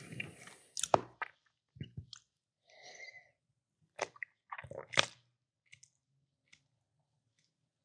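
Close-miked eating and food-handling sounds: a handful of separate sharp clicks and squishy smacks, the loudest about a second in and about five seconds in.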